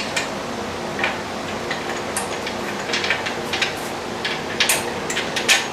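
Irregular metallic clicks and taps from tools and the steel parts of a home gym being worked on during disassembly, over a steady low hum.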